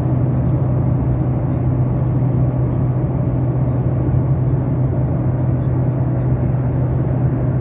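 Steady drone inside an airliner cabin: engine and airflow noise with a constant low hum.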